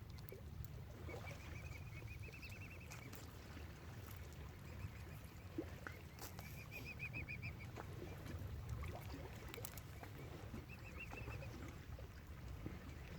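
A bird calling in three runs of rapid, evenly spaced high chirps, each lasting about a second or two, over a steady low rumble.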